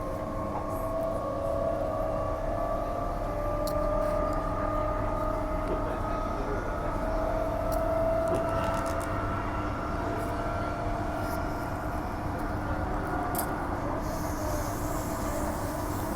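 Transperth A-series electric multiple unit heard from inside the carriage while running between stations. There is a steady wheel-and-rail rumble, with an electric motor whine that rises slowly in pitch over the first half and then eases, and a few light clicks.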